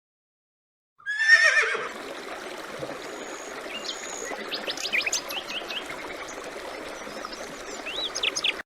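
A horse whinnying briefly with a quavering, falling call about a second in, followed by a steady rushing background with small birds chirping over it.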